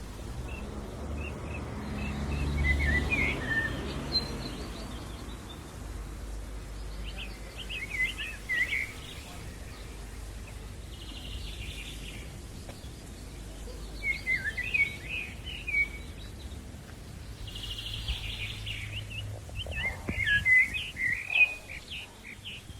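Songbirds chirping in several bursts of quick, high chirps a few seconds apart, over a steady low background rumble of outdoor noise.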